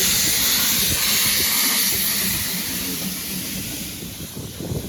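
Steam hissing steadily from a narrow gauge steam locomotive, easing off about three seconds in.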